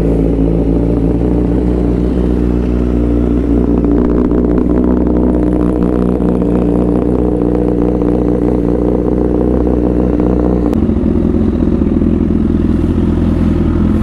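Honda CBR1000RR Fireblade's inline four-cylinder engine idling steadily just after a cold start, at a raised fast idle; about three-quarters of the way through the idle drops to a lower, rougher note as it settles.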